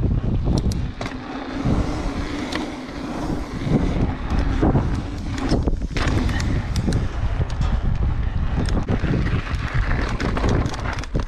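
Mountain bike riding over wet ground: tyre noise and frequent knocks and rattles from the bike, with wind on the microphone.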